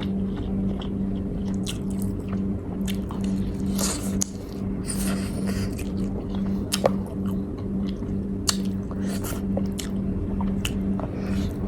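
Person chewing and biting food close to the microphone, with scattered sharp clicks and smacks. A steady low hum runs underneath.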